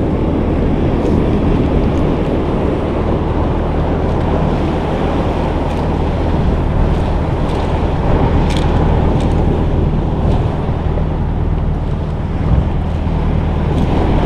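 Small boat's motor running at a steady low hum, with wind buffeting the microphone. A few faint ticks sound over it, the clearest about eight and a half seconds in.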